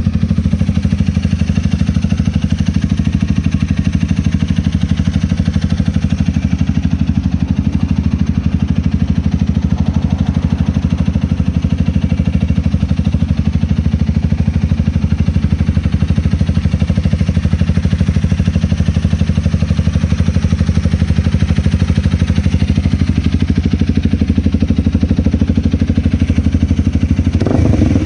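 Honda Rebel 250's single-cylinder engine idling steadily through an aftermarket Diablo muffler, then starting to rev near the end.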